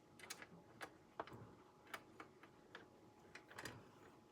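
Faint, irregular light clicks and taps of small screws and a screwdriver being handled during assembly, about a dozen over a few seconds, otherwise near silence.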